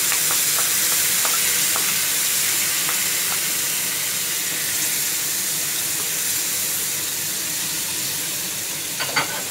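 Tomato paste sizzling in hot oil and browned garlic in a frying pan: a loud, steady hiss that slowly eases, with a few light scrapes of a spatula.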